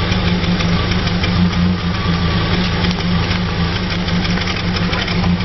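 1990 Acura Integra's 1.8-litre four-cylinder idling steadily through its stock exhaust, with no revving. It runs on corroded, rusty spark plugs that the owner thinks made it misfire and sound really bad.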